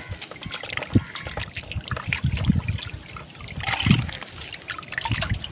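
Water trickling and splashing as prawns are washed during cleaning, with small irregular clicks and a louder splash about four seconds in.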